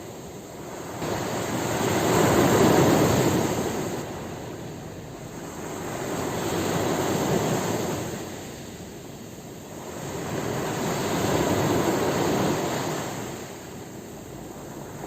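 Ocean waves breaking on a shore: three slow surges of surf, each swelling and then fading.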